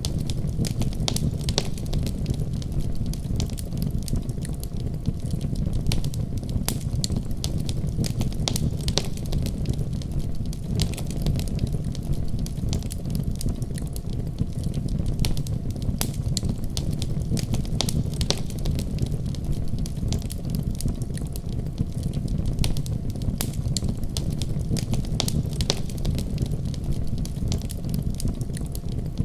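Fire crackling in a fireplace: frequent sharp, irregular pops and snaps over a steady low rumble of the flames.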